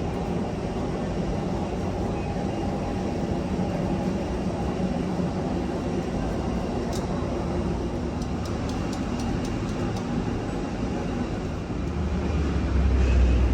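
Steady hum of an airliner's machinery with no speech. A few light clicks come about seven to ten seconds in, and a low rumble swells near the end.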